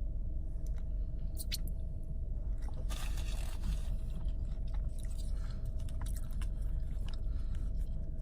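Close-up chewing and biting of food, with small crunches and mouth clicks and a denser crunching or rustling spell about three seconds in. A steady low hum runs underneath.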